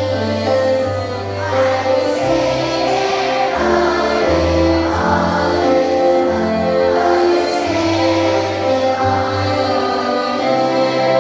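A children's school choir singing a song in unison over a steady instrumental accompaniment with held bass notes.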